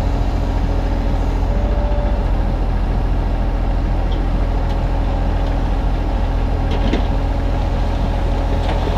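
Kubota U35-3 mini excavator's diesel engine running steadily under work, with the hydraulics giving a brief higher whine about two seconds in.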